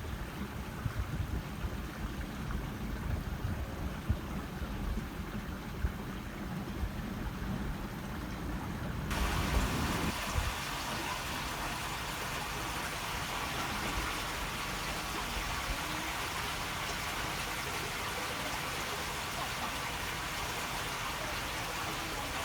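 Water flowing and babbling in a narrow waterway. For the first nine seconds or so a low, uneven rumble sits under the water; then the sound changes abruptly to an even, steady rush of running water.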